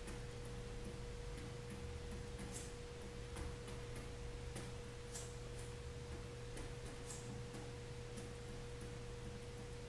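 Faint short scratchy drawing strokes, a few each second, over a steady electrical hum with a constant mid-pitched whine.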